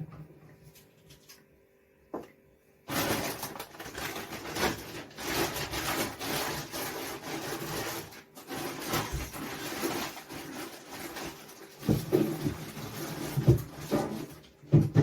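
Plastic bags rustling and food containers being handled and moved about, a dense rustle lasting several seconds, then a few separate knocks near the end as things are set down.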